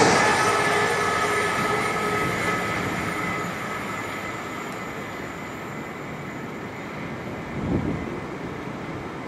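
Train running past and moving away. Its rumble and a thin high wheel squeal fade steadily over several seconds. There is a brief low thump near the end.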